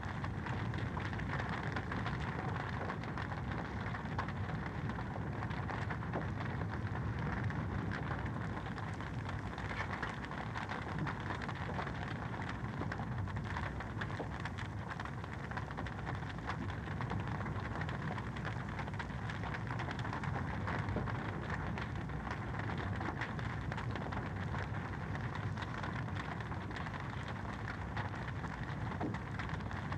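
Wood fire crackling in a fireplace: a steady hiss dotted with many small pops and snaps.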